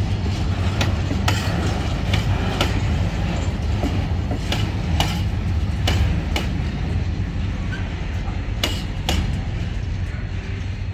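Freight wagons rolling past on the track: a steady low rumble with sharp, irregular clacks of the wheels striking the rail joints, the clacks thinning out in the last few seconds.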